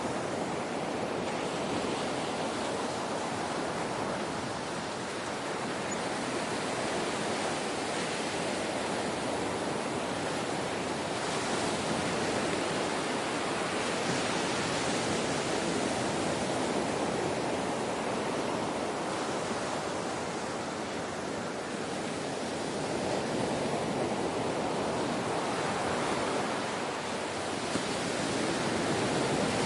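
Ocean waves washing on a shore, a steady rushing that swells and eases gently every few seconds.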